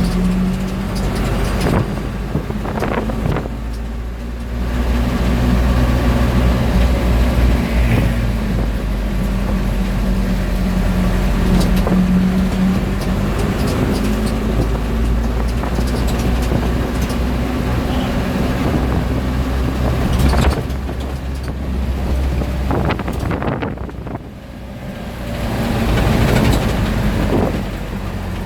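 Old classic car's engine running, heard from inside the cabin while driving along city streets with road and street noise. The engine eases off about three-quarters of the way through, then picks up again.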